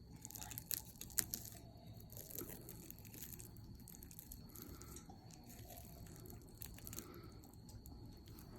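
Eating grilled fish with chopsticks: sharp clicks of the chopsticks, loudest about a second in, with soft crunching and chewing.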